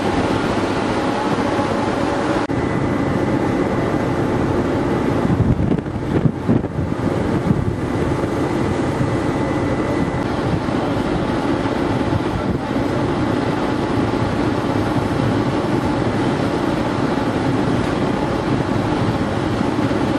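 Steady drone and rush of the ferry Delft Seaways under way, its machinery hum mixed with wind noise. About six seconds in, a couple of seconds of louder, uneven buffeting from gusts on the microphone.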